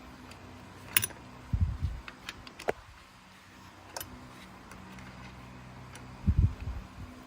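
Workshop work sounds: sharp metallic clicks and ticks of tools and parts being handled, and two dull low thumps, the louder events, about a second and a half in and near the end, over a faint steady low hum.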